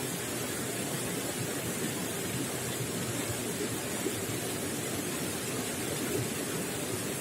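Running water gurgling and splashing steadily, a continuous rush with no breaks.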